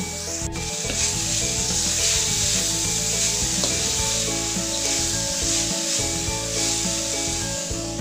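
Diced beef, onion and garlic sizzling in a hot wok while a spatula stirs and scrapes through them, a steady frying hiss that stops abruptly at the end; soft background music plays underneath.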